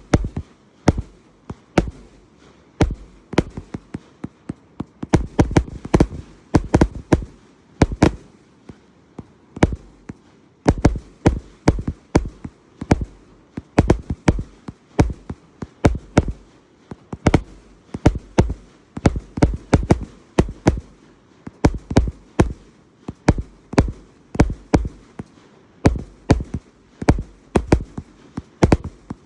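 LFG "Jack" 293-shot firework cake firing a long unbroken run of sharp shots, several a second, with quick clusters here and there.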